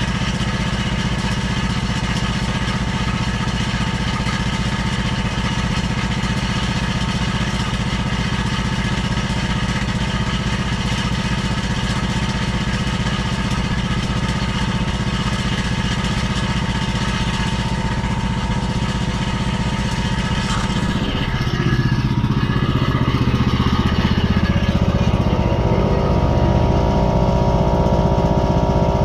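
Small engine running steadily; about three-quarters of the way through it gets louder and its pitch changes, as if put under load or throttled.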